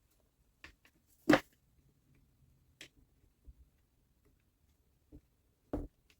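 A few scattered knocks and clicks of parts and tools being handled, the loudest a little over a second in and another near the end.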